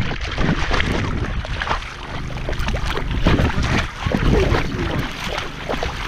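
Water splashing and sloshing around a dog wading in a river, mixed with low rumbling and rubbing noise on a camera microphone that is jostled by the movement.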